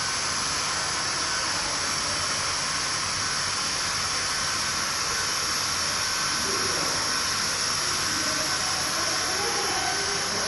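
Hot-air welding gun for vinyl blowing with a steady hiss.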